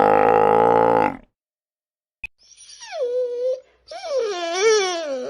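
A loud, low animal call cuts off about a second in. After a pause and a click, a dog whines and howls in two wavering calls that fall in pitch.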